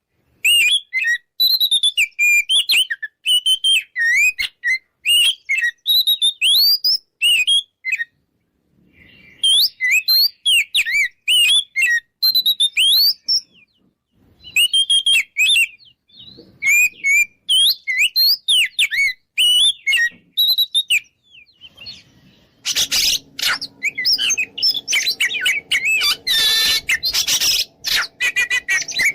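Oriental magpie-robin singing a rapid, varied run of whistles and chirps, broken by a few short pauses. About twenty-three seconds in, the song turns into a louder, harsh scratchy stretch.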